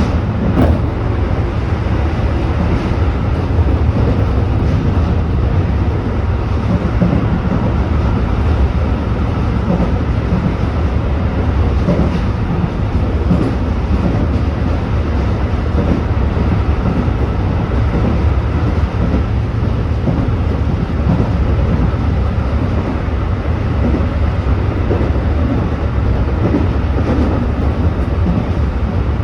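Tobu 8000-series electric train running between stations, a steady rumble of wheels and running gear heard from on board.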